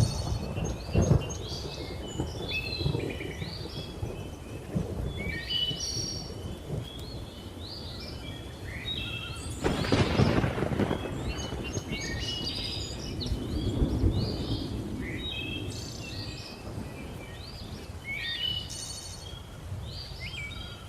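Many birds chirping and calling over low, rolling thunder, with stronger rumbles near the start, about halfway through and again a few seconds later.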